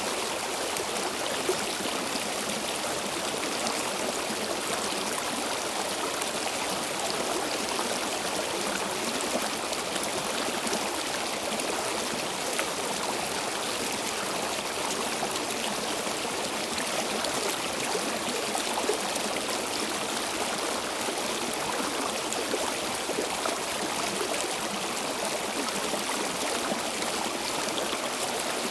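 A flowing stream: water running steadily over rocks, with a constant rushing and bubbling and no pauses.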